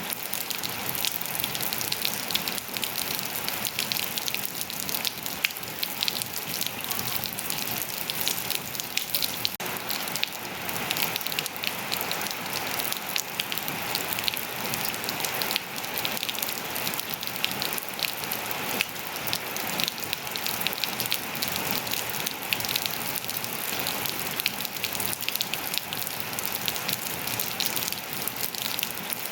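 Steady rain falling on hard surfaces, a dense patter of many drops hitting.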